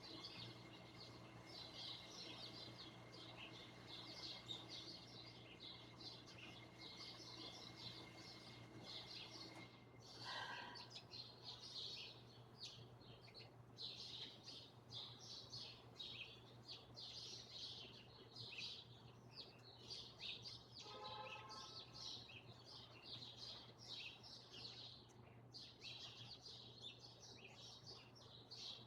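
Faint, busy chattering of a flock of small birds, many quick overlapping chirps without pause, over a steady low hum.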